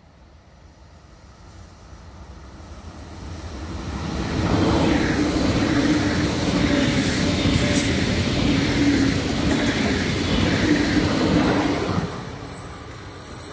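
ICE 4 high-speed train approaching and passing close by at speed. The rumble grows over a few seconds, holds loud for about seven seconds with a repeating rhythm from the passing cars, then drops sharply as the end of the train goes by, leaving a fainter receding rumble.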